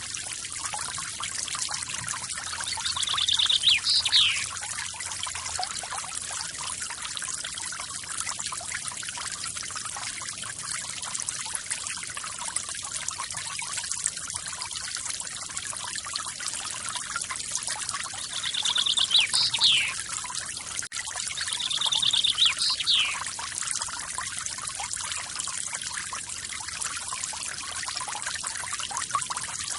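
Small forest waterfall splashing and trickling steadily. A bird calls three times over it, about 3 s in, about 19 s in and about 22 s in: each call is a short trilled note followed by a sharp sweep down in pitch.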